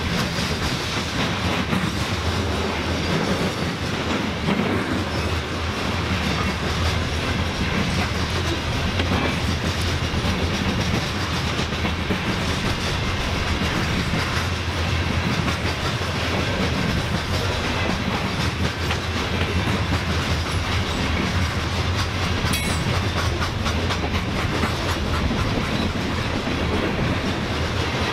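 Train cars rolling steadily past on the track, wheels clattering over the rails without a break.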